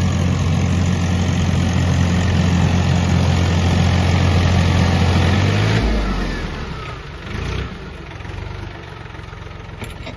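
Mahindra Oja tractor's diesel engine running with a steady hum. About six seconds in the sound drops off to a quieter, lower rumble, with one brief swell a moment later.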